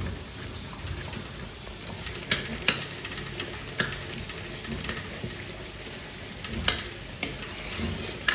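Dishes and utensils clinking sharply about six times during a meal, over a steady low background noise.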